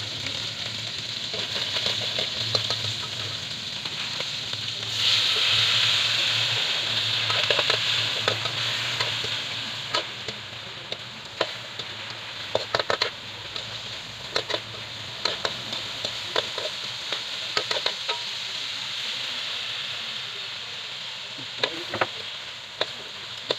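Bullfrog meat sizzling as it fries in a hot pan, the sizzle swelling louder about five seconds in. From about ten seconds on, a spatula scrapes and taps against the pan as the meat is stirred.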